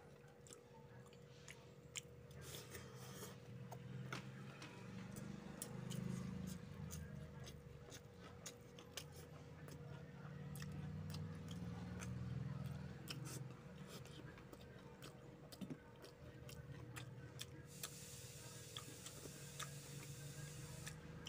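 Close-miked eating sounds of a person eating rice and fish curry by hand: chewing and wet lip smacks, with many small sharp mouth clicks. A faint hiss comes in near the end.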